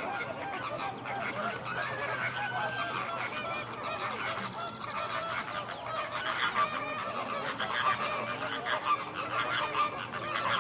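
A large flock of geese honking, many calls overlapping without a break.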